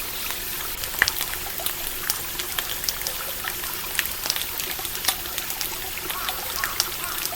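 Stream water trickling and running steadily, with the sharp pops of a crackling wood campfire scattered through, the loudest about a second in.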